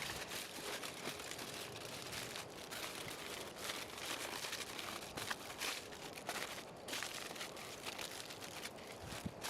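Aluminium foil being crinkled and folded by hand: an uneven crackling that keeps stopping and starting, as it is wrapped around food for cooking in the embers.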